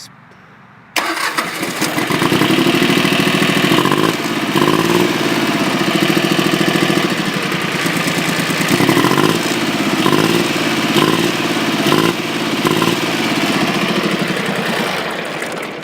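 Old farm tractor engine starting about a second in, catching at once and then running steadily at a fast idle.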